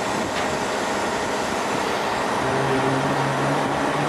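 Steady noise of running machinery, with a low engine hum joining about two and a half seconds in.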